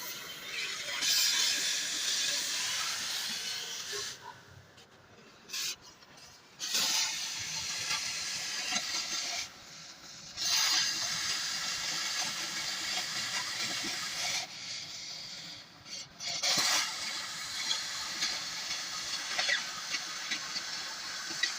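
Welding arc hissing and crackling in runs of several seconds, breaking off three times for a second or two between them.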